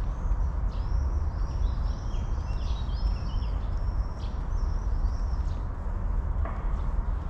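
Small songbirds chirping: a run of short, arched high notes starting about a second in and lasting around four seconds, over a steady low rumble.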